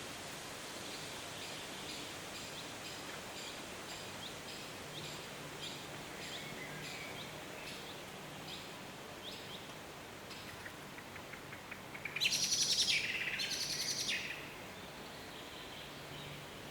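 Wild birds singing in a northern forest: one bird repeats a short high note about twice a second, then a fast run of ticking notes. This leads into a loud two-part burst lasting about two seconds, a little after the middle.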